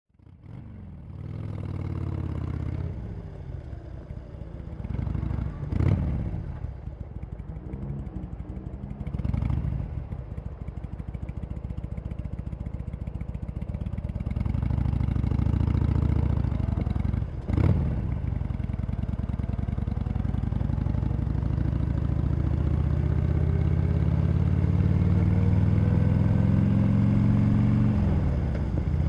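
Harley-Davidson Sportster Iron 883's air-cooled V-twin running through its stock exhaust, the revs rising and falling with three brief sharp jolts. In the second half the pitch climbs steadily for about ten seconds, then drops off near the end.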